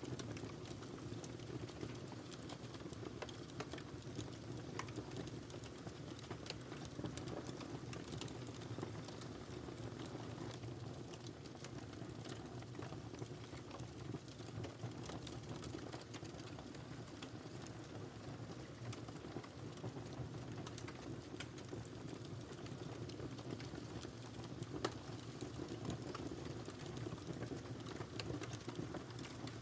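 Wood fire crackling in a fireplace: a steady low rush of burning with frequent small sharp pops and snaps, one louder pop late on.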